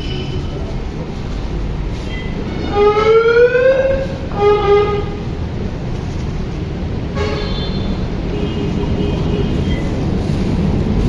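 Steady rumble of a moving train heard from inside the carriage, with a short rising tone about three seconds in, a briefer tone a second later, and fainter tones near the end.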